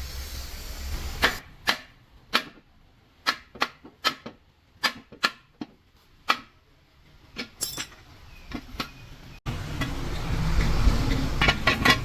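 About a dozen sharp hammer blows on metal, spaced unevenly with pauses between them. About three-quarters of the way through, the sound cuts abruptly to a louder, steady low rumble with a few clicks.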